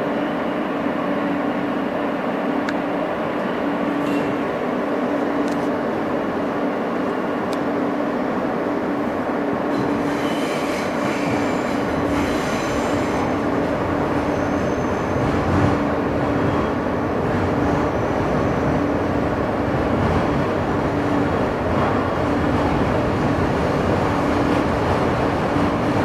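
R160 subway car in motion, heard from inside: a steady rumble of wheels on rail under a constant low hum. High thin squeals from the wheels come in for a few seconds near the middle.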